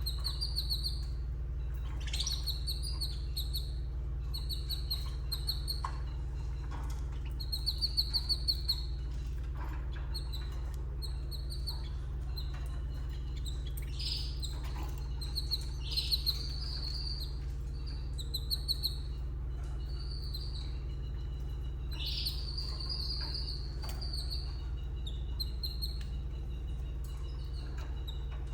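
Canaries chirping in short, high trilled bursts, repeated every second or two, over a steady low electrical hum.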